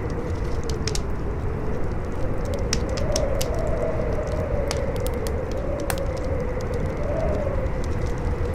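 Campfire crackling with scattered sharp pops over strong howling wind, whose pitch wavers slowly up and down.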